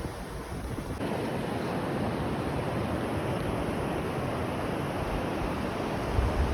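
Steady rushing of water, an even hiss that sets in abruptly about a second in. Wind buffets the microphone with a low rumble near the end.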